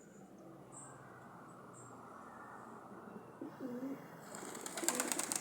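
Small birds chirping faintly, with a low cooing call about halfway through. Near the end comes a rapid clatter of many wingbeats as the flock takes off.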